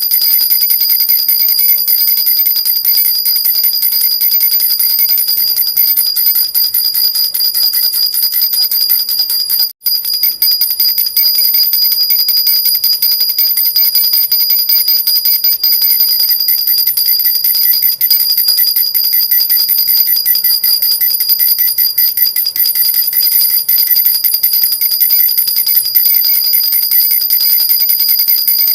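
Silver jhunjhuna, an Indian baby rattle with small bells, shaken without pause: a steady, bright, high jingling. It cuts out for an instant about ten seconds in.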